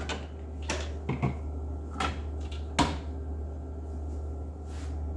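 A few separate sharp clicks and knocks of hard plastic refrigerator water-filter housing parts being handled, four of them in the first three seconds and a softer one near the end, over a steady low hum.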